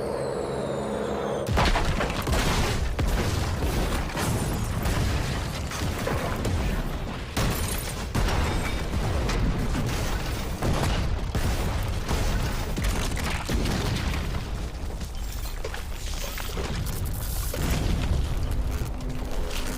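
Aerial bombardment: the falling whistle of bombs is cut off about a second and a half in by a sudden blast, followed by a continuous barrage of heavy explosions.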